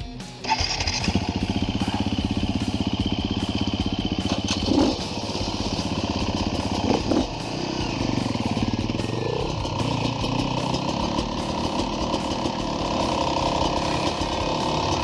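Dirt bike engine running under way on a trail, its revs rising and falling briefly a few times.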